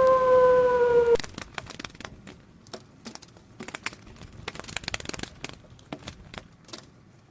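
A dog's long howl, held on one steady pitch, ends abruptly about a second in. It is followed by a quiet run of scattered soft clicks and crackles.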